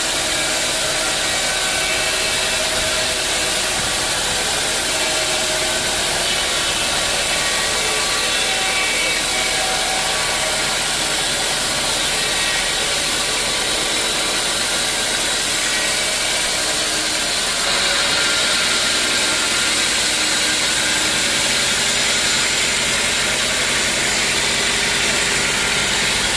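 Sawmill saw running steadily while cutting a teak log, with the machine's engine running underneath; the sound shifts about two-thirds of the way through, the low engine hum coming forward.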